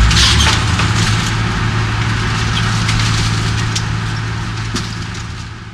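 Building demolition: a heavy machine's engine running steadily under dense crunching and splintering of wood and debris, with scattered sharp cracks, fading out near the end.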